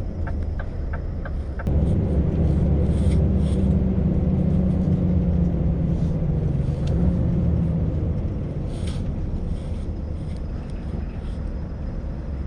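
Scania V8 truck engine running under load, heard from inside the cab. It gets louder and deeper about two seconds in as the truck pulls, then eases off after about eight seconds. A few evenly spaced ticks come in the first second or so.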